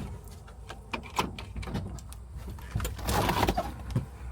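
Scattered clicks and light knocks in the cab of an old GMC truck, with a short scraping rustle about three seconds in, over a low rumble.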